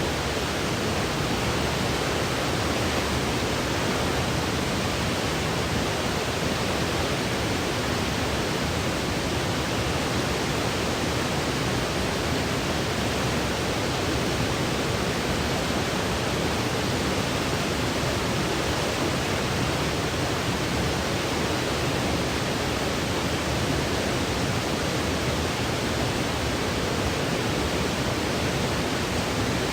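Steady white noise for infant sleep: an even, unchanging hiss spread across low and high pitches.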